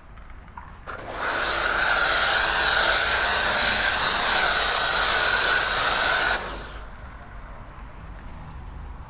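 Karcher K2 pressure washer running and spraying: a steady motor whine over a loud hiss of water. It starts about a second in and cuts off about five seconds later.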